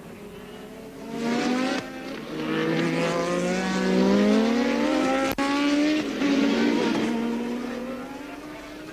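1983 Formula One cars running at speed, their engine notes rising in pitch as they accelerate, loudest in the middle and fading away toward the end. A brief dropout breaks the sound a little past five seconds in.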